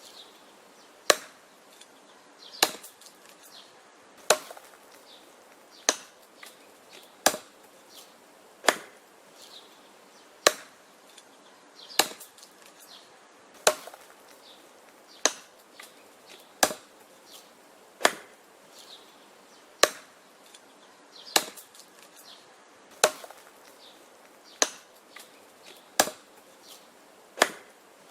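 Axe chopping wood: sharp, even blows, about one every one and a half seconds, with fainter clicks and knocks of wood between strokes.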